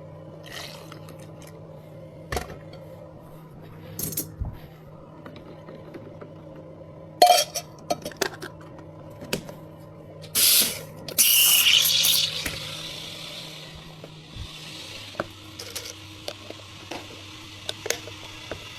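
Drink-shop counter work: scattered clinks and knocks of cups, utensils and containers, with a louder rush of noise for about a second just after eleven seconds in, over a steady low machine hum.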